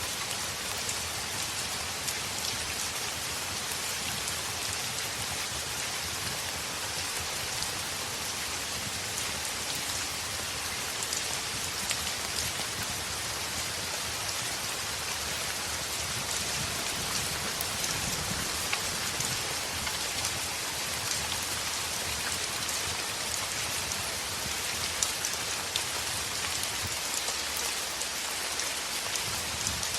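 Heavy rain falling steadily on a window: a dense, even hiss with many small scattered ticks.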